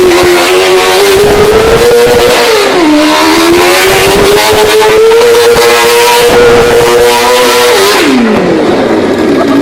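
Motorcycle-engined go-kart running at high revs, its engine note holding high with small rises and falls. The revs dip briefly about three seconds in and fall away steeply near the end.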